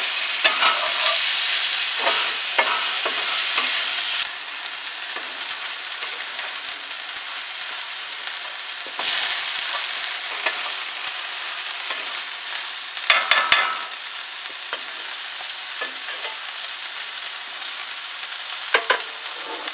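Steak, green peppers, onions and cheese sizzling steadily in a cast-iron skillet while a spatula chops and stirs them against the pan, with short bursts of clatter a little past the middle and again near the end.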